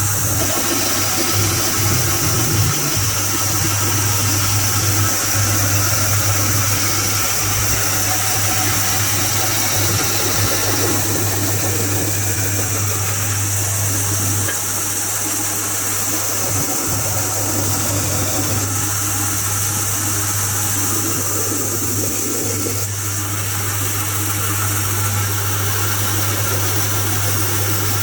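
A machine motor running steadily with a constant low hum under a continuous noisy whir.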